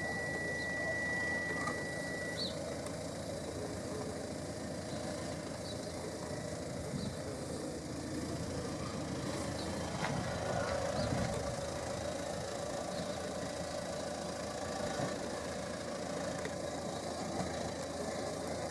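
Hyundai Santa Fe's 2.0 turbo diesel engine idling steadily. A high steady beep sounds during the first couple of seconds and then stops.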